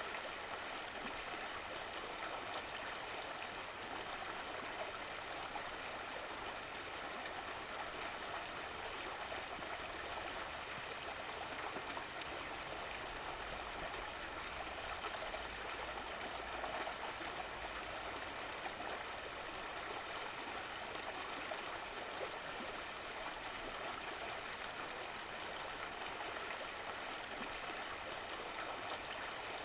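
Running water of a stream flowing steadily, an even rushing and trickling without breaks.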